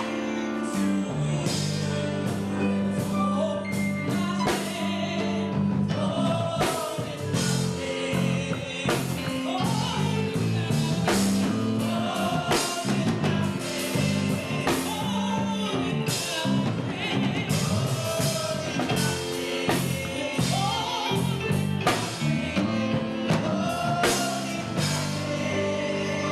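Gospel worship music: singing over a band with a steady bass line and regular drum hits.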